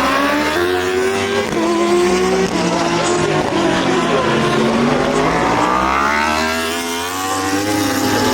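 Several racing superbike engines revving hard at once, their pitch climbing and dropping repeatedly through gear changes.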